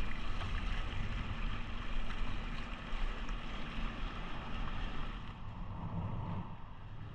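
Steady wind and water noise from a small sailing catamaran under way, with wind buffeting the microphone; the higher hiss eases near the end.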